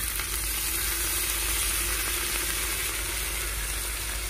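Onion, garlic and sweet peppers frying in oil in a cast-iron potjie pot over coals: a steady sizzle as lemon juice is squeezed in.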